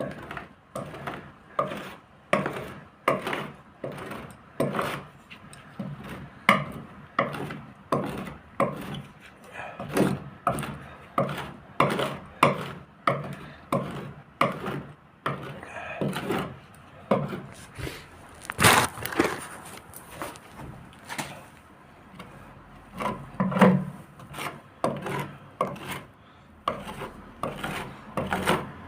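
Repeated hand strokes rubbing and scraping on a boat hull during polishing and gelcoat work, about one to two a second, irregular, with a short pause a little past the middle.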